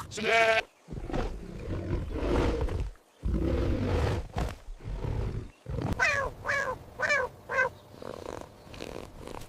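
A big cat roaring and growling in two long, rough bouts. Near the end come several short, high, falling cries.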